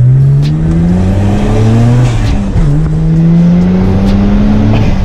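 Car engine heard from inside the cabin, accelerating hard through a manual gearbox: the note rises steadily, dips about two seconds in as it is shifted up, then rises again toward another upshift near the end.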